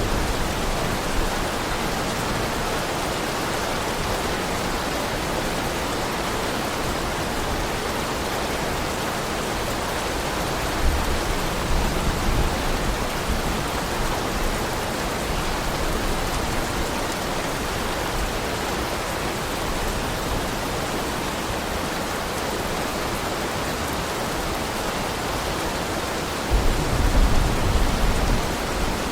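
Heavy rain falling in a steady, even hiss, with low rumbles swelling twice: once about eleven seconds in and again near the end.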